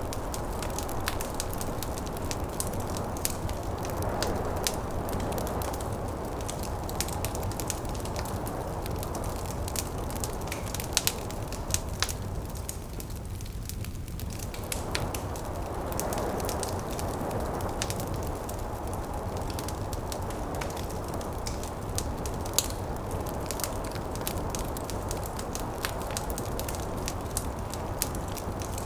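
Wood fire in a fireplace crackling with many small pops and a few sharper ones, over a steady background of snowstorm wind that swells and fades, thinning out briefly around the middle.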